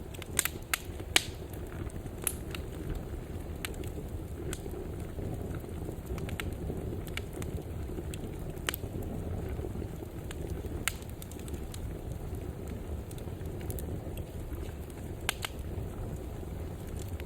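Wood fire burning in a fireplace: a steady low rush of flames with irregular sharp crackles and pops, a cluster of the loudest about a second in.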